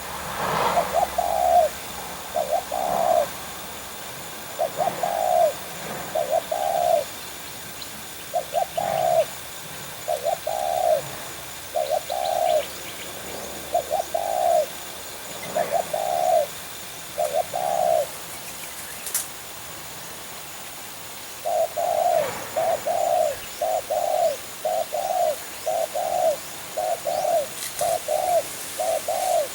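Spotted doves cooing: low coos repeated in pairs and short groups, a gap of a few seconds past the middle, then a quicker, unbroken run of coos near the end.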